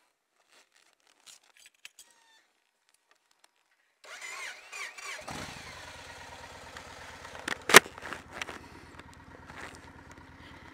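Yamaha Star Raider motorcycle being started: a few faint clicks, then the starter whirrs for about a second before the big V-twin engine catches and settles into a steady idle, with one sharp knock a couple of seconds after it catches.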